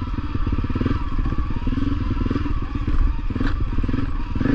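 Honda CRF250L's single-cylinder four-stroke engine running while the bike is ridden, with a brief sharp knock about three and a half seconds in.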